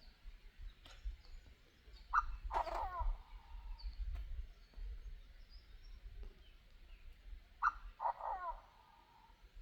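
Bird call played through a loudspeaker as a lure, heard twice about five and a half seconds apart. Each call is a short sharp note followed by a longer call of several wavering tones. A low rumble runs underneath.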